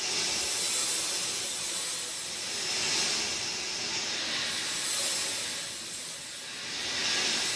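Steady rain, a dense hiss that swells and eases every couple of seconds.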